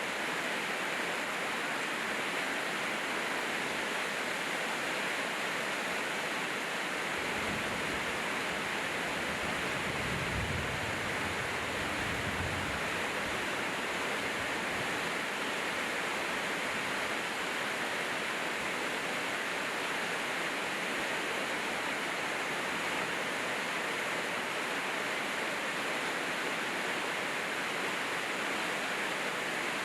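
Steady rain falling, an unbroken hiss with no let-up, and a faint low rumble for a few seconds about a third of the way in.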